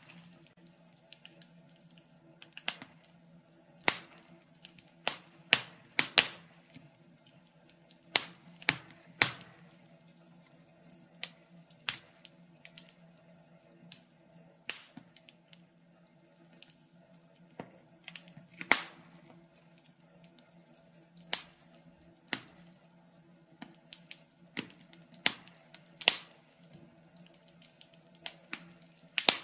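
Wood fire crackling in a fireplace: irregular sharp pops and snaps at uneven intervals, some much louder than others, over a faint steady low hum.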